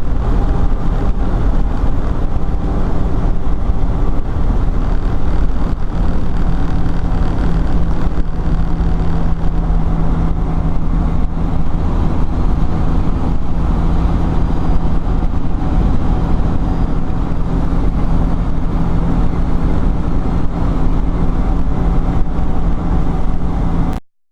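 Peterbilt 378's 12.7-litre Detroit diesel engine running steadily under way, with road noise, as the truck cruises at a constant engine speed. It cuts off abruptly near the end.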